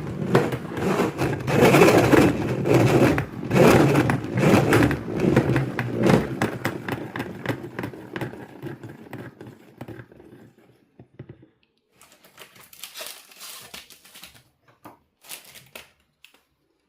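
Rustling, crinkling and scraping of things being handled, dense for the first several seconds, then fading to a few scattered light clicks and taps.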